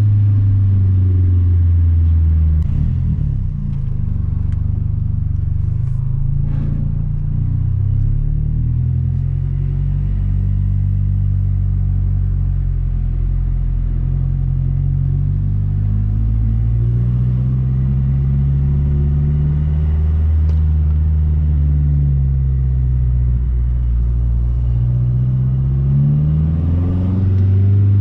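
2012 Mazdaspeed 3's turbocharged 2.3-litre four-cylinder, fitted with a bigger turbo, pulling the car along at low to moderate revs. Its note drops about three seconds in, then rises and falls gently several times, with a quicker rise near the end.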